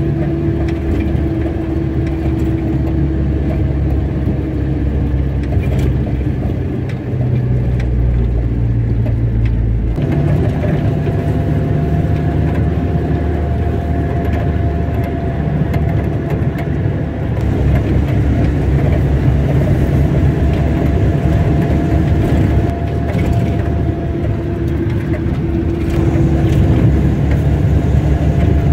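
A car driving along a road: steady engine running with road rumble. The engine note shifts about seven seconds in and changes abruptly about ten seconds in.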